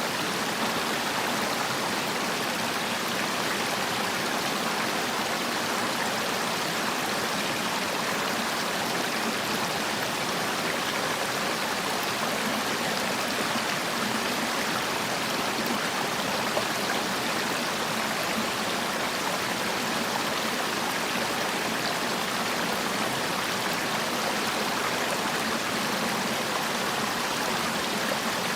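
A mountain stream rushing steadily over rocks, an even, unbroken water sound.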